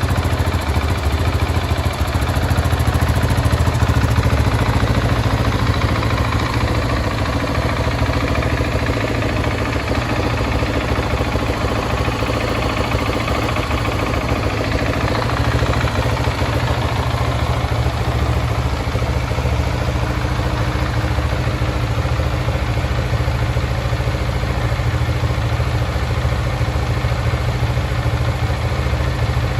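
KTM 690 SMC R's single-cylinder LC4 engine idling steadily.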